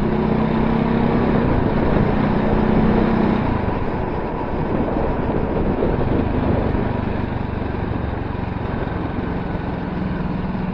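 Voge 300R motorcycle engine running under way, over a steady rush of riding noise; the engine note holds steady, then drops away about three and a half seconds in.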